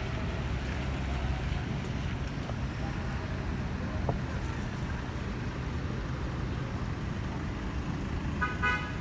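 Steady rumble of road traffic passing, with a short vehicle horn toot near the end.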